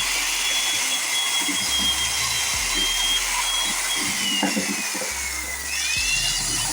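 A small electric power tool running with a steady high whine. Its pitch sinks over about two seconds as the motor slows under load, then swoops back up to speed near the end.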